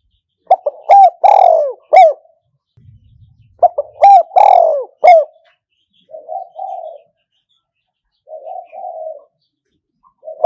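Spotted dove, a caged decoy bird, cooing its song: two loud phrases of several quick coos each, then two softer, lower runs of cooing in the second half.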